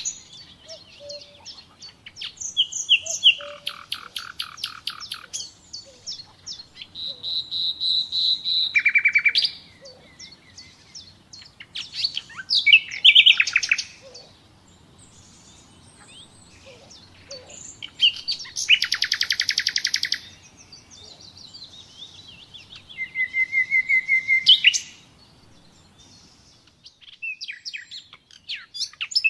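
Common nightingale singing: a string of separate song phrases, each a fast run of repeated notes or a rattling trill, some ending in a sharp upward note, with pauses of a second or two between phrases.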